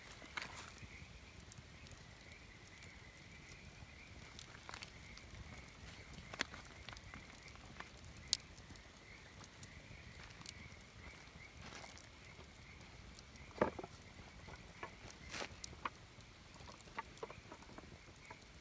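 Wood campfire crackling, with irregular sharp pops and snaps, a few louder than the rest, over a faint steady high tone.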